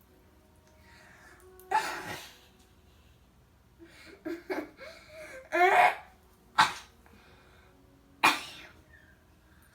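A child coughing and sneezing several times in short separate bursts, play-acting being sick with the coronavirus.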